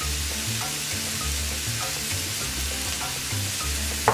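Chopped onion, ginger and garlic frying in hot olive oil in a stainless steel sauté pan, a steady sizzle, with curry powder just added.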